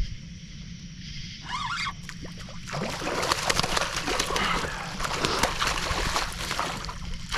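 Channel catfish splashing and thrashing at the water's surface as it is reeled in to the kayak, the splashing starting about three seconds in and continuing in irregular bursts.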